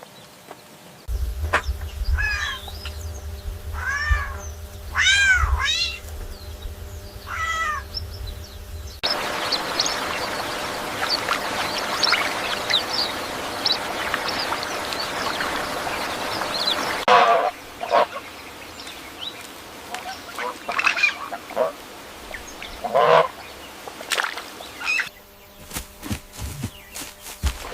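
A string of short clips of animal calls. First come a few separate calls that rise and fall in pitch, then a dense patter of many short high calls over a steady hiss, then scattered single calls.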